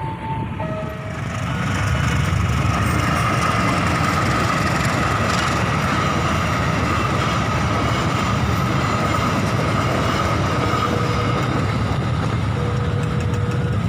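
A train passing over a level crossing: a loud, steady rumble of wheels on the rails with a high, steady whine through most of it. The crossing's alternating two-tone warning alarm sounds briefly at the start.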